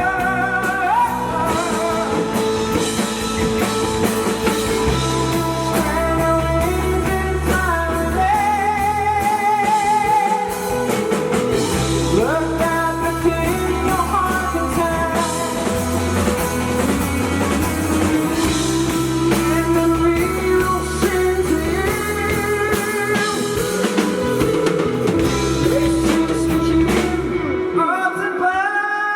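Rock band playing live: a singer holding wavering notes over electric guitar, bass and drum kit. Near the end the bass and drums drop away.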